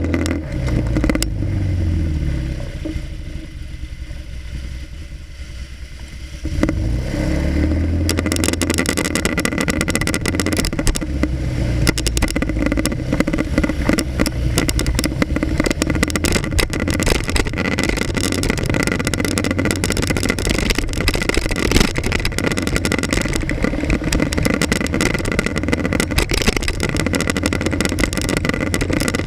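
Motorcycle engine picked up by an action camera mounted on the front of the bike. Its pitch rises near the start, settles into a quieter stretch, then rises again about seven seconds in. After that it runs on steadily under a loud rush of wind and road noise.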